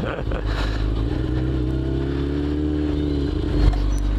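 Motorcycle engine running; its pitch rises slowly, then eases off after about three seconds. A short knock follows near the end.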